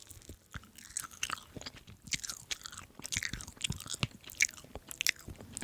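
Close-up mukbang chewing: wet, irregular smacks and crackles of a person biting and chewing tiger-skin fried tofu, a crinkled fried crust over tender, juicy tofu.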